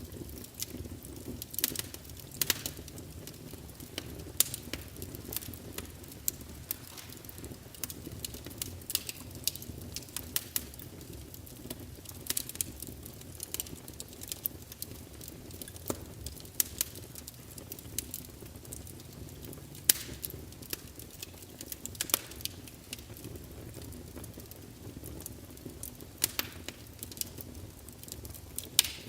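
Wood fire burning in a fireplace: sharp, irregular crackles and pops over a steady low rumble of the flames.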